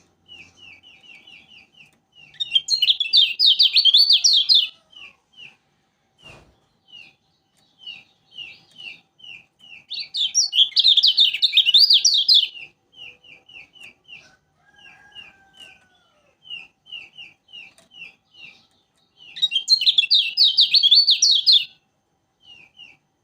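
Lombok kecial kuning (yellow white-eye) singing: a steady run of short high chip notes, several a second, broken three times by a loud burst of rapid twittering lasting about two seconds, with a single brief click about six seconds in.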